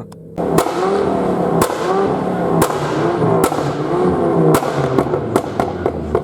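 A modified vehicle's engine revving again and again, each rev rising and falling, with sharp exhaust bangs and pops (backfires) cracking out about once a second and coming faster near the end. It starts suddenly about half a second in.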